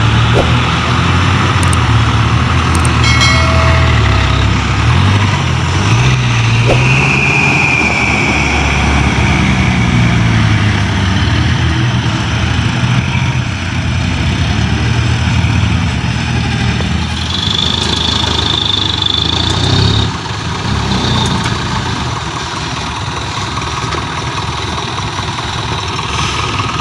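Heavy diesel engines of dump trucks running as they tip their loads, the engine note shifting up and down. A high whine rises over the engines twice, and the engine sound drops a little about twenty seconds in.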